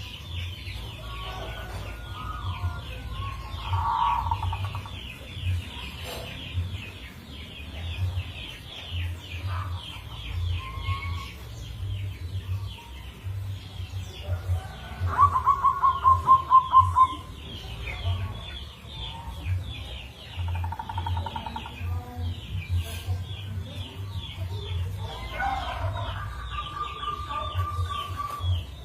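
Zebra dove (perkutut) cooing in its rhythmic song: several separate phrases of quick pulsed notes, the loudest run a little past halfway. A steady rapid chirring of insects and a low hum run underneath.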